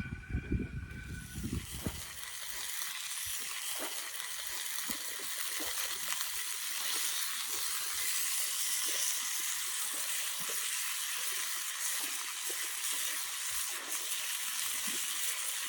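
Food sizzling in a frying pan: a steady hiss with small crackles that sets in about two seconds in, after a few knocks and a brief tone at the start.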